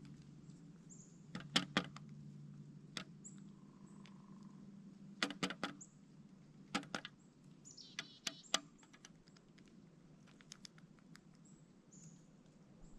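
Male pileated woodpecker pecking at a suet feeder: sharp taps and knocks in irregular clusters of two or three, with pauses between.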